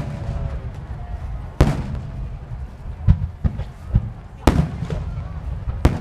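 Aerial firework shells bursting overhead in a string of sharp booms, about seven in irregular succession. Three loud ones fall about a second and a half in, midway and near the end, with softer ones between, over a steady low rumble.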